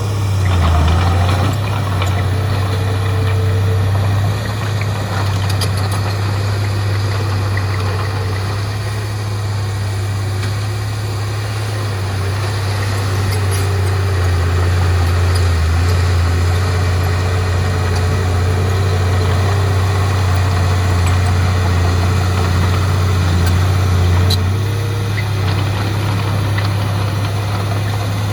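Heavy diesel engine of earthmoving machinery running steadily with a deep, continuous rumble, its note shifting slightly with load now and then.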